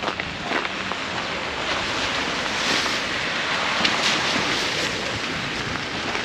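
Blizzard wind gusting over the microphone with a steady rush that swells and eases. A few crunching footsteps in snow are heard at the start.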